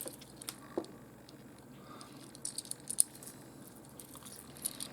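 Small pieces of opal rough clicking and tapping against each other as they are picked up and turned over by hand: a scattering of light clicks, the sharpest about three seconds in.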